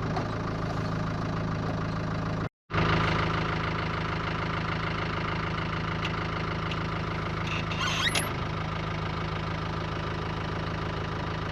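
Land Rover Defender's 300Tdi four-cylinder turbo diesel running steadily at an even speed. The sound cuts out for a moment about two and a half seconds in, and there is a brief high chirp about eight seconds in.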